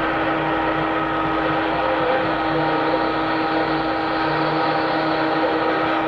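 Steady vehicle running noise with a constant droning hum, unchanging throughout.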